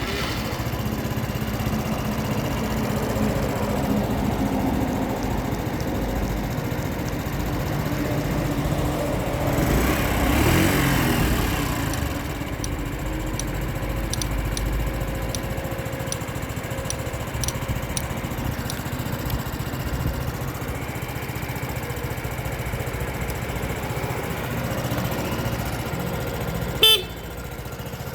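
Honda Super Cub 50 (AA08) small single-cylinder four-stroke engine just started and running, with a rise and fall in engine speed about ten seconds in. A short loud tone sounds near the end.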